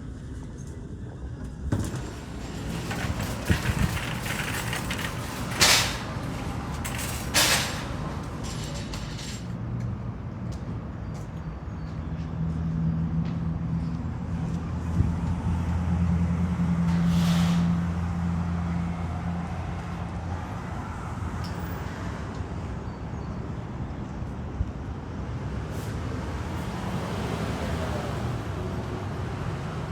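A vehicle engine runs with a low hum that swells and is loudest about halfway through, then eases off. Two short, sharp hisses come about six and seven and a half seconds in.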